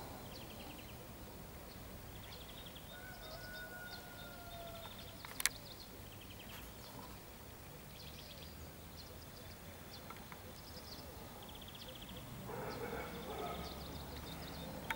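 Outdoor ambience of small birds calling in short, rapid high trills that repeat every second or two over a faint steady hum, with one sharp click about five and a half seconds in.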